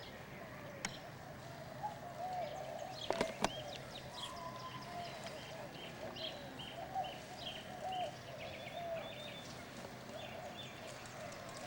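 Birds calling, a series of short, evenly repeated high chirps over lower, shorter calls, with two sharp clicks about three seconds in.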